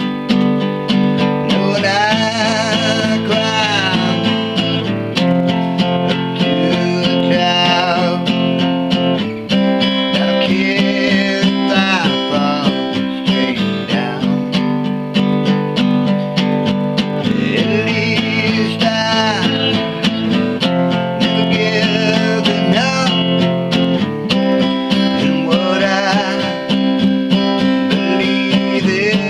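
Acoustic guitar strummed steadily, with a voice singing phrases of a song over it.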